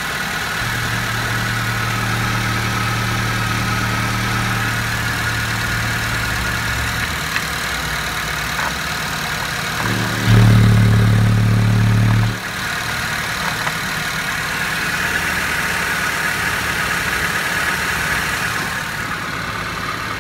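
Honda R20A5 2.0-litre four-cylinder petrol engine idling steadily, heard close up in the engine bay. About ten seconds in, a louder low hum comes in for about two seconds, then drops back to the steady idle.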